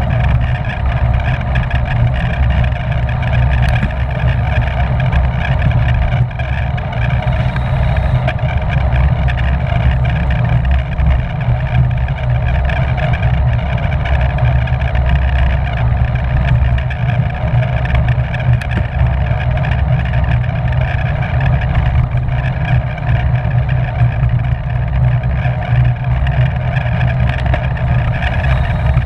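Steady wind noise roaring over the microphone of a camera riding on a racing bicycle at speed, loud and unbroken.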